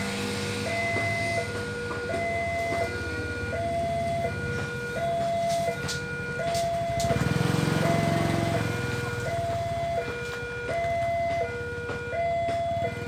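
Railway level-crossing electronic warning alarm sounding a repeating two-tone hi-lo pattern, each tone lasting about half a second. A low rumble swells in the middle, and there are a few sharp clicks around six seconds in.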